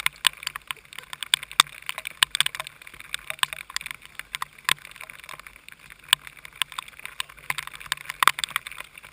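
Heavy rain: irregular sharp ticks of drops striking the onboard camera housing, several a second and uneven in strength, over a steady hiss of rain and spray, with a faint steady low hum underneath.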